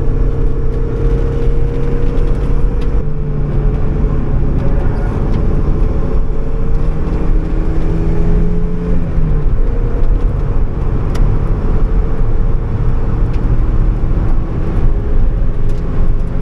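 Mazda MX-5's four-cylinder engine pulling hard on track, heard from inside the cabin over road and wind noise. Its pitch climbs steadily and steps down about three seconds in and again about nine seconds in, as with gear changes.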